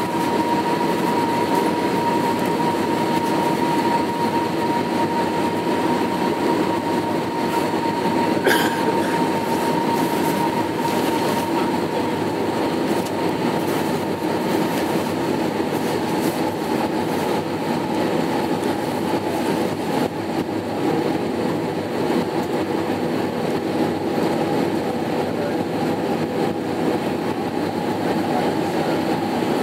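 Airbus A319-132 cabin noise in flight: a steady rushing drone with the IAE V2500 engines' whining tone, which slowly sinks in pitch as thrust eases. One sharp click comes about eight seconds in.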